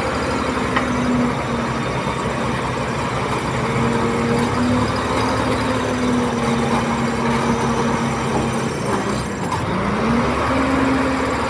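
Heavy diesel engine of earthmoving machinery running steadily. Its pitch sags and recovers about nine and a half seconds in, as the engine speed drops under load and picks up again.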